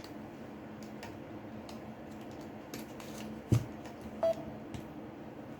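Small clicks and taps of work on a smartphone, with one sharp knock about three and a half seconds in and a short electronic beep just after it, over a steady low hum.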